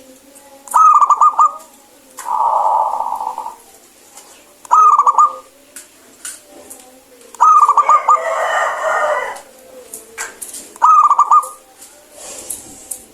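Zebra dove (perkutut) cooing: about four loud phrases of quick staccato coos, each a little under a second long. Two of the phrases run on into a longer, rougher rolling note.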